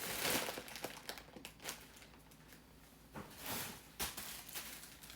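Handling of gift items and their packaging: a few short rustles and crinkles with light clicks and taps as things are picked up and set down.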